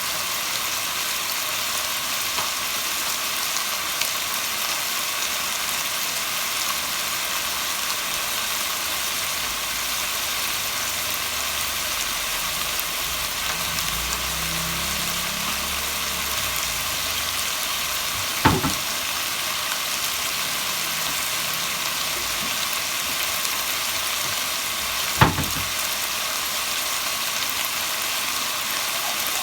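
Chicken pieces frying in hot oil in a pot, a steady sizzle while they brown and render their fat. Two sharp knocks stand out, about 18 and 25 seconds in.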